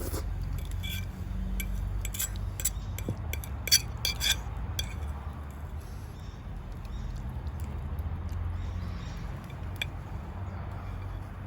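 Cutlery clinking against a dish while eating: a cluster of sharp clinks a couple of seconds in, the loudest near the middle, then a few more near the end. A steady low rumble runs underneath.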